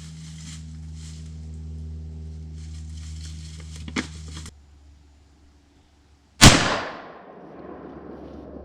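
A single rifle shot about six and a half seconds in, a sharp report that rings out and fades over about half a second. Before it, a steady low hum runs, with a sharp click about four seconds in, and the hum drops away shortly before the shot.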